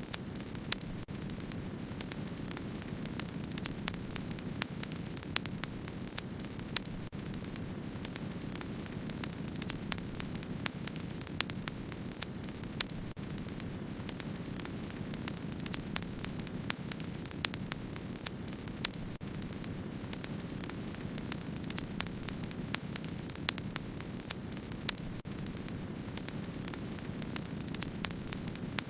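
Wood fire crackling, with a steady low rush of burning and many small sharp crackles, and now and then a louder pop.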